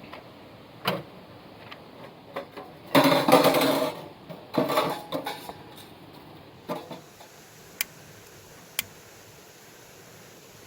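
Metal gear being handled: a few knocks, then a second or two of dense clattering and rattling, followed by two sharp single clicks.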